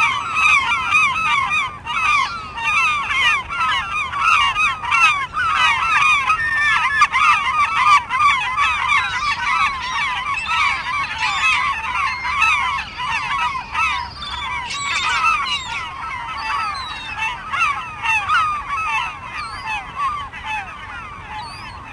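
A flock of gulls calling, many short calls overlapping in a dense, continuous chorus that grows somewhat quieter toward the end.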